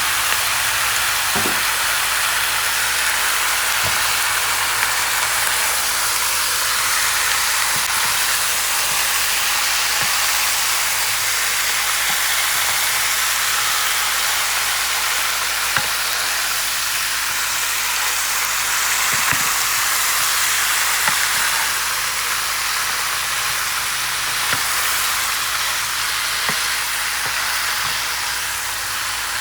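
Chicken wings frying in a pot of curry seasoning: a steady sizzle, with a few faint knocks now and then.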